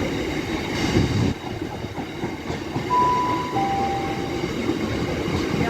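Diesel-hauled freight train, Class 60 and Class 56 locomotives with their wagons, rolling through the station with a steady rumble of wheels on rail. About three seconds in there is a short two-note tone, high then lower.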